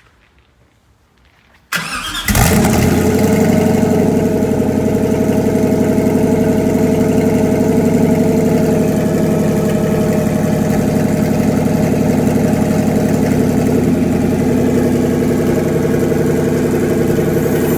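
Supercharged Ford GT V8 with a Whipple supercharger cold-starting: the starter cranks briefly about two seconds in, then the engine catches and settles into a loud, steady fast idle.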